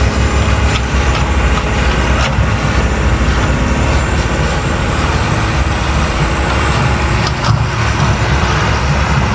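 Heavy diesel machinery engine running steadily, with a couple of faint knocks.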